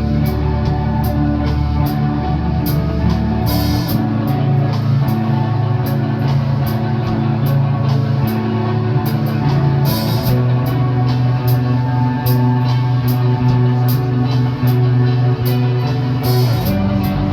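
Rock band playing an instrumental passage: a drum kit keeping time on the hi-hat with a cymbal crash every six seconds or so, under sustained bass and guitar chords that change with each crash.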